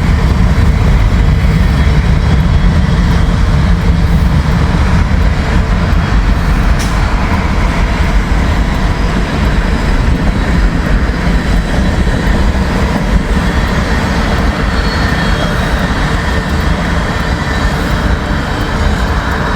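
Freight train cars rolling past close by: a steady loud rumble of wheels on rail that eases slightly near the end.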